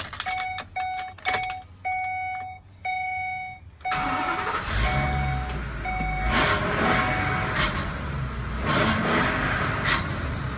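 A U-Haul 20-foot box truck's dashboard warning chime dings repeatedly as the key clicks in the ignition, then about four seconds in the engine cranks, starts and settles into a steady idle while the chime dings a few more times.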